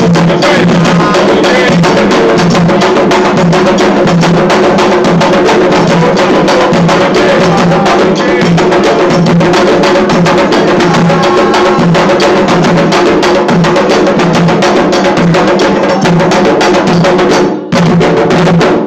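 Loud, fast, continuous ritual drumming of a Candomblé ceremony: atabaque hand drums with a sharp clicking percussion part, breaking off briefly near the end.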